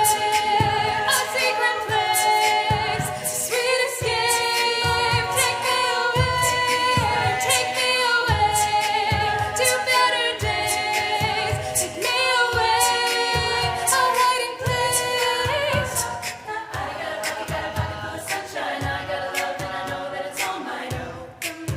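College a cappella group singing in close harmony, with vocal percussion keeping a steady beat under the voices. The singing gets somewhat softer about two-thirds of the way through.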